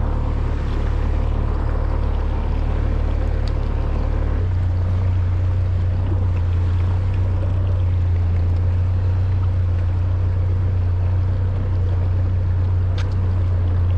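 Boat motor running steadily, a low hum under water noise; the hum steps to a different, stronger pitch about four seconds in.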